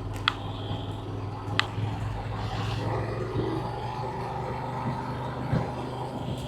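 A steady low engine hum, like a motor vehicle running, with two sharp clicks in the first two seconds.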